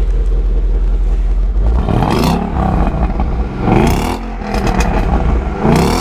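Ford Mustang GT's 5.0-litre V8 on its stock exhaust, idling with a deep steady rumble, then revved three times in quick blips, each rising and falling back to idle.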